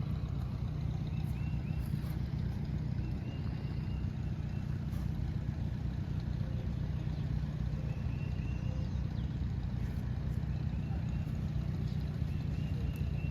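An engine running steadily at an even speed, with no change in pace.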